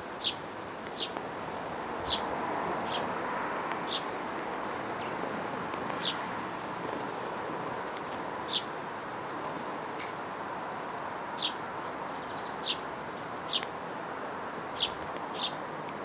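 Short, sharp bird call notes, about a dozen of them at irregular intervals of roughly a second, over a steady background hiss.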